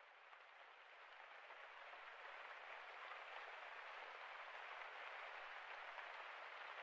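Faint rain, an even hiss that slowly fades in.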